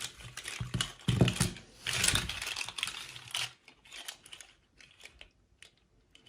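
Hands handling toy packaging: rustling and crinkling for the first three seconds or so, then scattered light clicks and taps.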